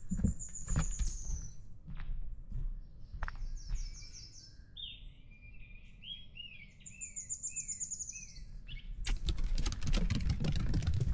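Songbirds calling, with a high trill and a run of short falling whistled notes. Footsteps sound on the trail at the start and again from about nine seconds in.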